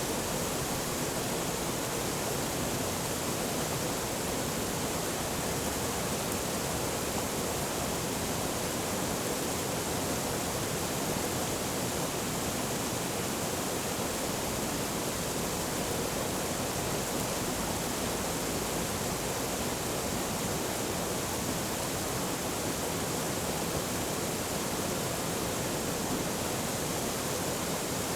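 Forest stream flowing, a steady, unchanging sound of running water.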